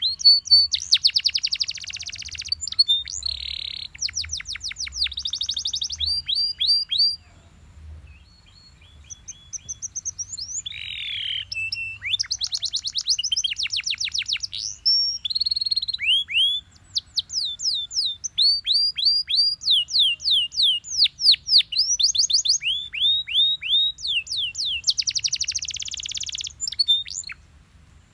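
Belgian canary singing a long song of rapid trills and rolls and runs of quick falling whistled notes, broken by a couple of short pauses.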